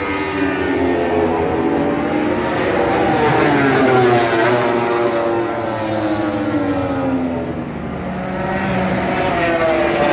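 Engines of several MotoGP racing motorcycles running at once, overlapping, their pitch rising and falling over and over as they accelerate, shift and slow.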